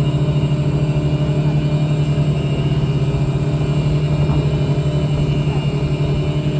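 Boat engine running steadily at cruising speed, a loud even drone with a fast pulse, over low rumbling noise from wind and water.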